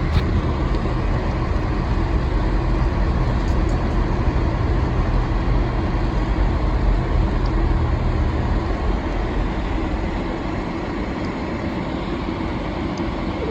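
Steady road and engine noise inside a moving vehicle's cabin, its snow tires rolling on a snow-covered road. The low rumble eases somewhat about nine seconds in.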